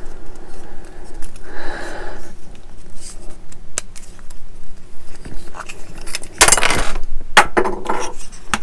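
Plastic model-kit parts clicking, tapping and scraping against each other as they are handled and pressed together, with a louder scrape about six and a half seconds in.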